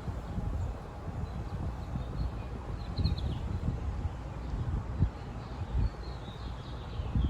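Outdoor nature ambience: an irregular low rumble of wind on the microphone, with a few faint bird chirps about three seconds in and again near the end.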